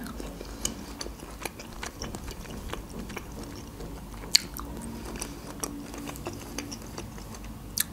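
Close-miked chewing of green olives: wet mouth clicks and small crunches, with one sharper click about four and a half seconds in.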